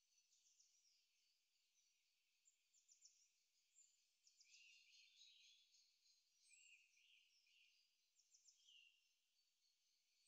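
Faint high birdsong: scattered chirps and quick trills, a few short rising and falling sweeps, at a very low level.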